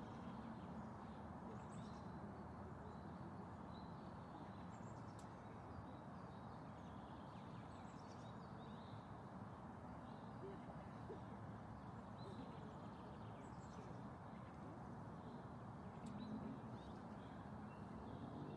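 Faint birds calling, short high chirps every second or two, over a steady low noise haze.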